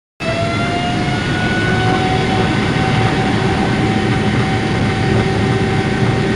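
Jet airliner engines running: a loud, steady rushing noise with a whine that rises slightly over the first second or so and then holds. It cuts in suddenly just after the start.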